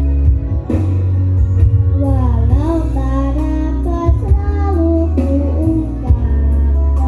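Children singing over loud amplified music with a heavy, steady bass; the sung melody comes in clearly about two seconds in.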